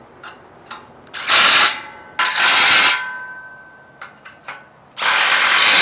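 Bolts being tightened on the steel frame of a power rack during assembly. Three bursts of tool noise, each about half a second to a second long, come with a few short clicks between them, and the steel frame rings faintly after the bursts.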